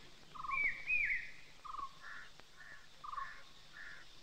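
Birds singing: two arched, whistled notes about half a second in, then a repeating phrase of short trills alternating with higher chirps, roughly one phrase a second.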